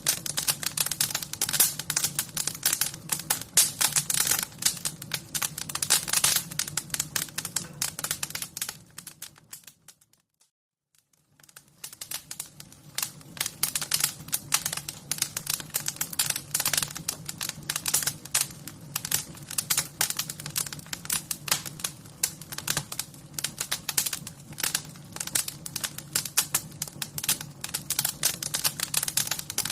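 Wood fire crackling, with dense, irregular pops and snaps over a low steady rumble. It fades out to silence about ten seconds in and fades back up a second or two later.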